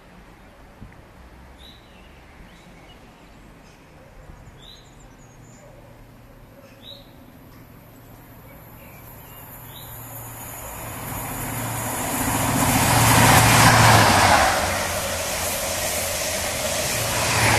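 A Class 43 HST (InterCity 125) approaches and passes at speed: its diesel power car and wheels on the rails grow steadily louder from about halfway through, peak a few seconds later, then the coaches rush by. Before it arrives, birds chirp briefly several times.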